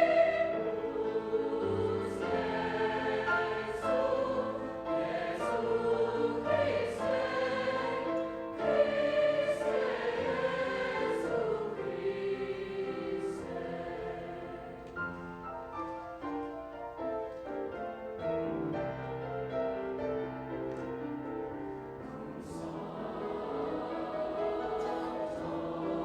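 High school choir singing sustained, multi-part phrases. The singing grows softer in the middle and swells again near the end.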